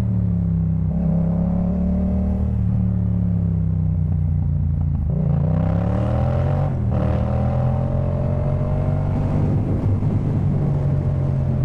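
Yamaha MT-07's 689 cc parallel-twin engine breathing through a Jeskap K4 full aftermarket exhaust while riding. It holds a steady note, then revs up from about five seconds in, shifts up just before seven seconds with a brief break in the sound, and pulls on steadily at a lower pitch that slowly rises.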